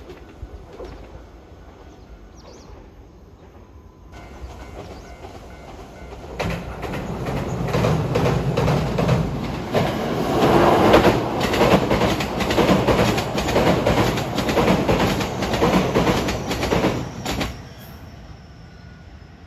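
JR West 227 series electric train passing close over a steel girder bridge: motor sound and the rapid clatter of wheels over the rails and bridge, building up and staying loud for about ten seconds before stopping abruptly near the end. Its musical horn sounds but is mostly buried under the motor noise.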